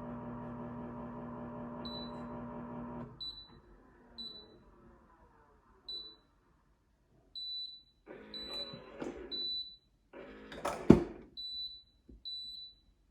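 Refrigerator control-panel beeps as the temperature buttons are pressed: about ten short, high beeps, all at the same pitch. A steady hum stops about three seconds in. Later come two bursts of handling noise with one loud knock near the end.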